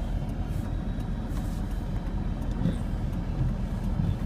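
Low, uneven rumble inside a vehicle's cab, from the engine and the dust-storm wind.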